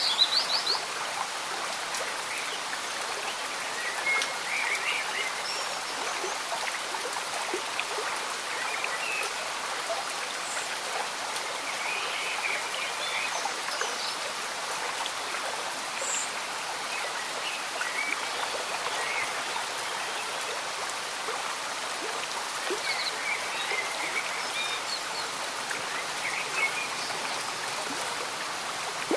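A gently bubbling stream with steady light rain, a constant wash of water. Short chirping calls are scattered through it, with a few louder splashy spikes about the first second.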